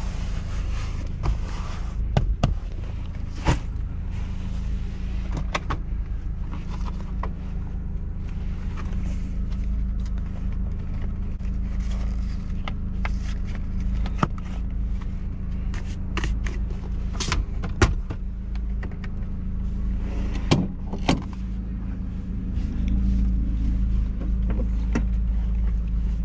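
2000 Mazda Miata's 1.8-litre four-cylinder engine idling steadily, heard from inside the cabin. Scattered clicks and knocks of things being handled in the car sit on top of the idle.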